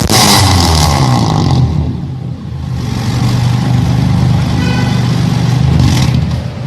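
Car engine revved through an aftermarket Alpino S01 racing muffler with downpipe and resonator. A loud rev falls back after under two seconds, then the revs climb again and are held high for about three seconds before dropping near the end.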